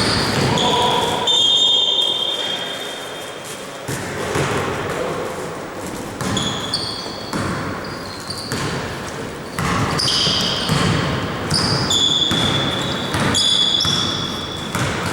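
Basketball being played in a large gym: the ball bouncing on the court, sneakers squeaking in short high chirps, and players' voices, all echoing in the hall.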